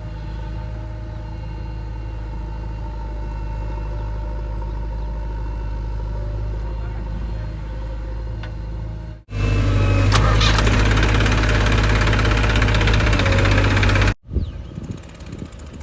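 Diesel engines of heavy machinery running steadily. About nine seconds in the sound cuts abruptly to a louder, harsher engine run. A few seconds before the end it cuts again to quieter, uneven running.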